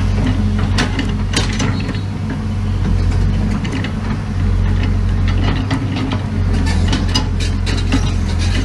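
Crawler bulldozer's diesel engine running steadily under load, with irregular metallic clanking and clicking from its steel tracks.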